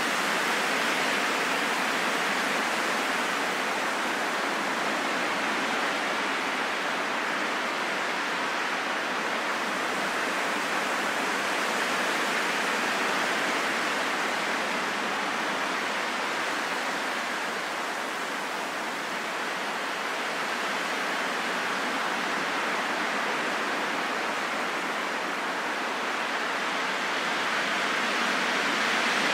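Steady rain falling in a forest: a dense, even hiss with no single drops standing out.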